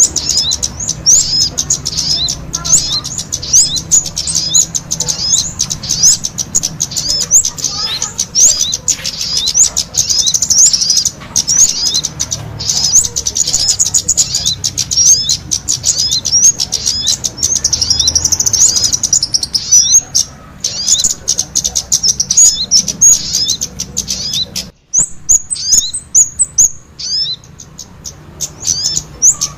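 Kemade and sogon songbirds singing intensely together: a dense, continuous stream of rapid, high chirps and quick upward-sweeping notes, with a brief break about 25 seconds in.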